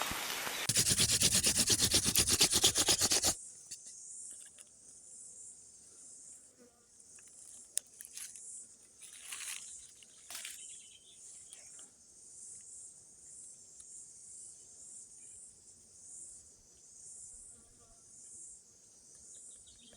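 Loud rain pattering for about three seconds, which cuts off suddenly. Then a faint, steady high chirring of insects, with a few brief soft rustles partway through.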